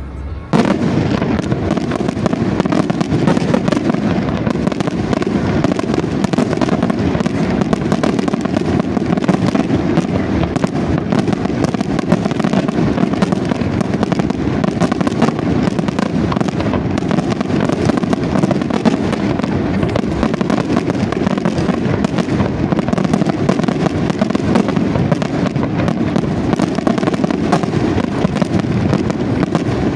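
Fireworks display firing a dense, unbroken barrage of aerial shells, the bursts running together into a continuous rumble of bangs and crackle. It starts abruptly about half a second in and holds an even loudness.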